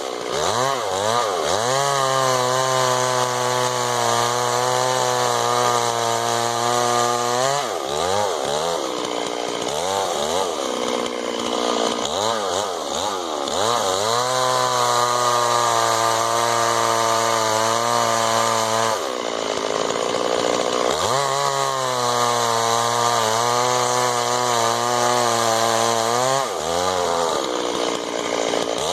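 Two-stroke chainsaw running at high revs throughout. Its pitch holds steady for stretches, then dips and recovers again and again, most deeply about two-thirds of the way in, as it bogs under load while cutting wood.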